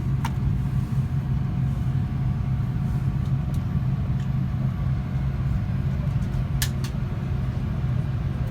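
Steady low hum of an Airbus A350-900 airliner cabin, with a few faint clicks, two of them close together near the end.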